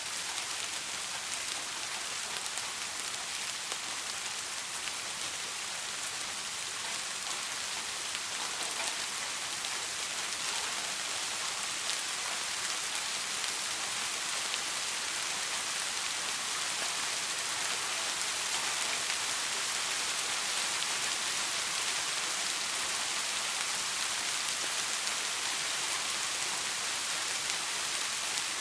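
Soft rain falling steadily: an even hiss of many drops, with a few sharper single drop ticks and no thunder.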